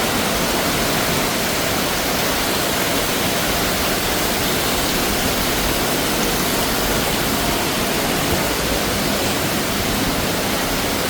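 Heavy tropical downpour: a dense, steady hiss of rain.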